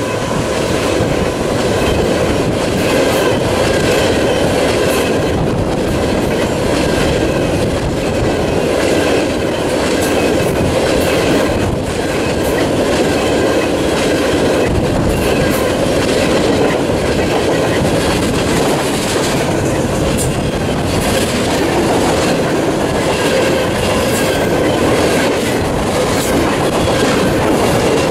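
A train rolling past close by, its wheels clacking steadily over the rail joints as the cars go by, with some wheel squeal.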